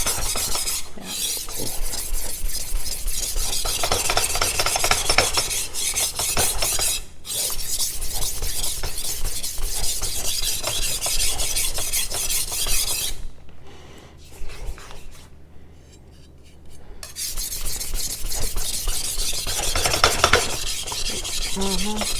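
AEB-L stainless knife blade worked fast back and forth on a coarse whetstone in freehand sharpening, a continuous gritty rasping ruckus, with a brief lull about two-thirds of the way through. It is the first, coarse stone, setting a new apex on a very dull edge.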